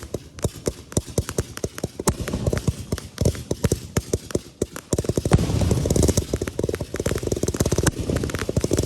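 Consumer fireworks going off as a dense run of rapid crackling pops over a low rumble, growing louder and thicker about five seconds in.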